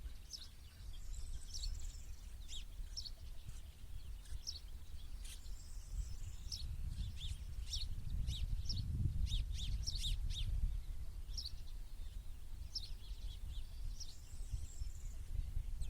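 Small songbirds chirping, many short high calls coming in quick scattered series, busiest in the middle. A low rumble sits underneath and grows louder in the middle.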